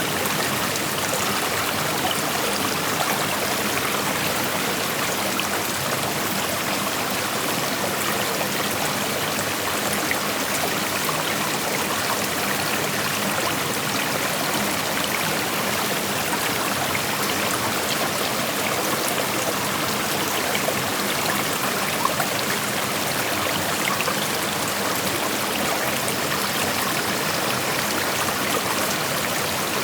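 Creek water flowing over rocks: a steady rushing with small splashes and trickles.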